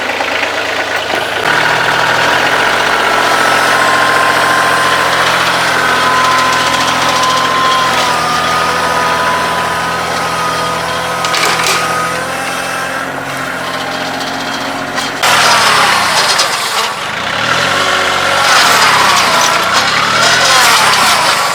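Kioti CK2610 compact tractor's three-cylinder diesel engine running under load as it drags a shed. It holds steady, then about fifteen seconds in gets suddenly louder, its pitch rising and falling.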